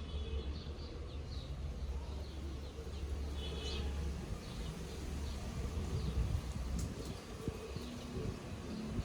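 Small birds chirping on and off in short high calls, over a low rumble that is heavier in the first half.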